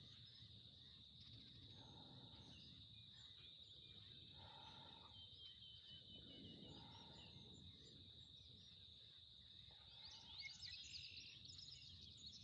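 Faint outdoor ambience: a steady, high insect chirring, like crickets, with a few quick bird chirps near the end.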